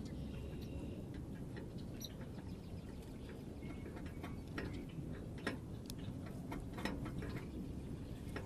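Birds at a feeder: irregular sharp taps and clicks of beaks pecking at seed, with a few faint short chirps, over a low steady rumble.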